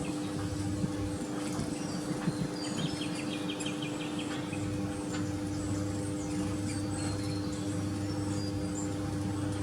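Small garden birds chirping and calling, with a short fast trill about three seconds in, over a steady low hum.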